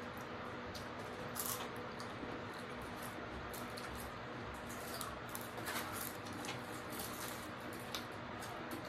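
Close-up chewing of crispy fried seafood: small crunches and wet mouth sounds, strongest a second or so in and again around the middle, over a faint steady hum.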